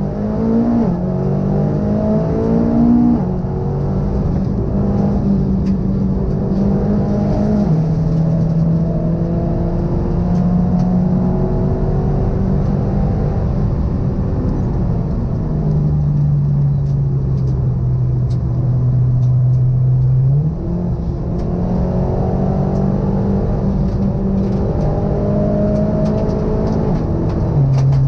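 Turbocharged engine of a tuned Audi TT, heard from inside the cabin under hard track driving. Its note climbs in steps through gear changes at the start, settles lower and steadier through the middle, then climbs through the gears again over the last several seconds.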